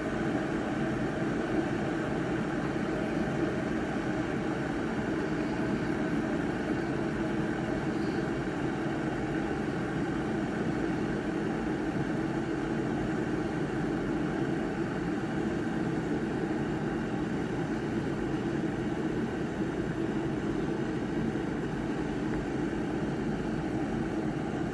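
Chefman electric kettle heating water, making a steady rushing noise with no breaks or changes.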